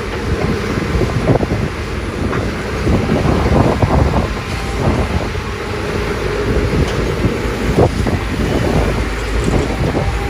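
Doosan DX300 excavator at work: its diesel engine runs steadily under hydraulic load, with irregular knocks and clatter.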